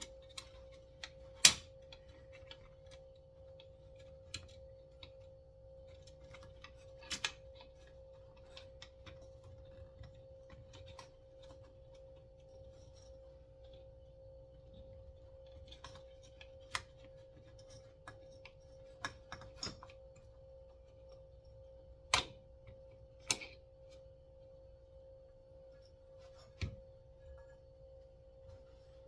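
Scattered sharp clicks and light metal taps as the chainsaw's recoil starter parts and spring are handled on a bench, the loudest about a second and a half in, over a steady faint humming tone.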